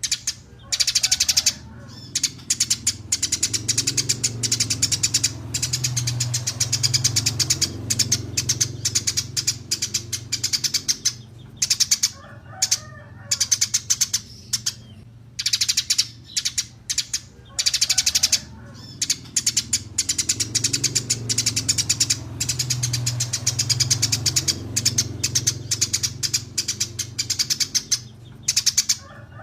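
Small songbirds chirping and twittering in rapid, high-pitched runs, broken by short pauses every few seconds, over a low steady hum.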